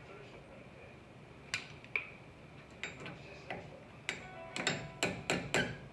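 Metal tools and parts clinking and tapping against each other: about ten sharp strikes, several with a short metallic ring, coming faster in the second half.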